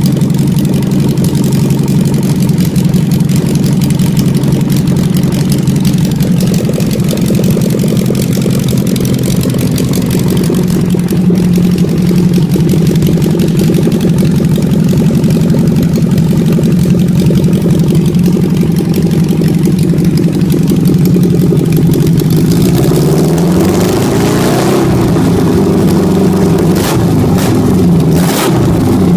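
Honda S800's small DOHC inline-four engine running on a test bench, idling steadily, then revved up and down several times near the end.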